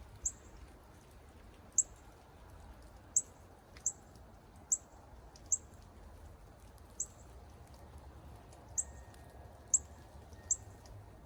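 Northern cardinal giving sharp, high chip calls, one about every second at an uneven pace.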